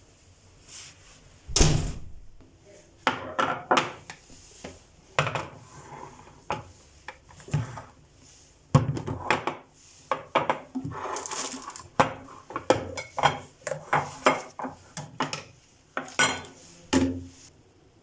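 Kitchen items and storage containers being handled and set down: an irregular run of knocks, clicks and short rattles. There is a loud knock a couple of seconds in and another about halfway.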